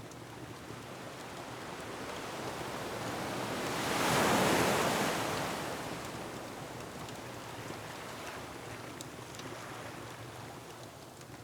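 Ocean waves on a rocky shore: the surf swells, one wave breaks loudest about four seconds in, then washes back out. A few faint crackles of a wood fire sound over it.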